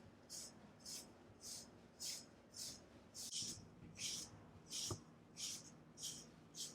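Equigroomer de-shedding brush drawn through a cat's coat in quick, even strokes, about two a second, each a short brushing swish. A single sharp click about five seconds in.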